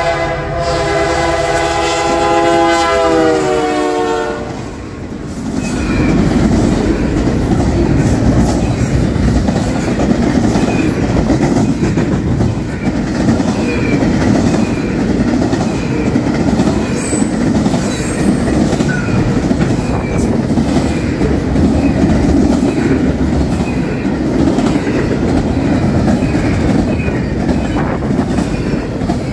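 A passing train's multi-chime locomotive horn sounds a chord, its pitch sagging as it ends about four seconds in. The train then rolls by with a steady rumble and a regular clicking of wheels over rail joints.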